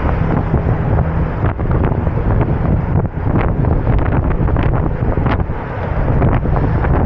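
Heavy wind buffeting the microphone of a moving bicycle ride, a loud steady low rumble with brief crackles scattered through it.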